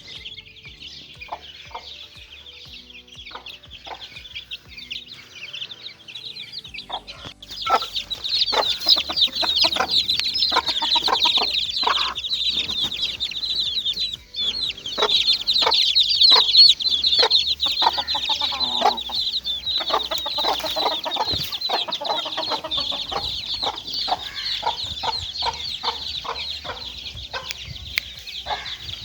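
A brood of domestic chicks peeping continuously in a dense chorus that grows much louder about eight seconds in, with short lower clucking calls mixed through it.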